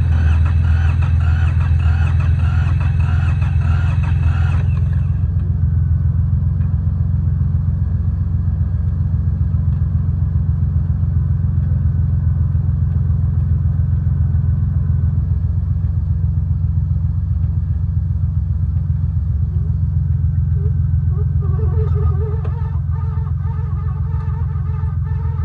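Yanmar YM146 garden tractor's diesel engine running steadily, just after starting. A higher-pitched layer on top drops away about five seconds in, and near the end geese start honking.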